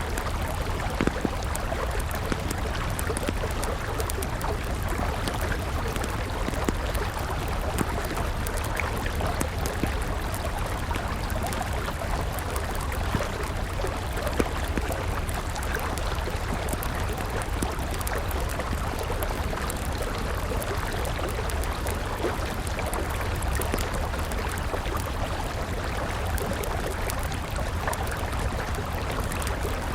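River water flowing steadily, with scattered small crackles and pops from a wood campfire.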